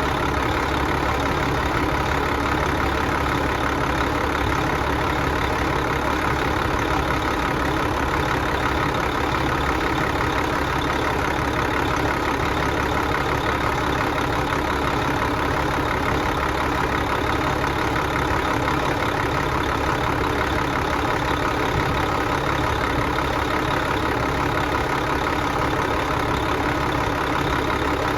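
A vehicle's engine runs steadily at one speed with no change in pitch or level; the engine is being run to destruction.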